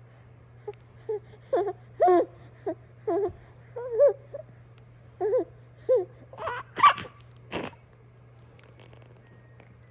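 A baby boy making short, high, squealing babbling sounds, about a dozen in a row. The loudest, harshest squeal comes about seven seconds in.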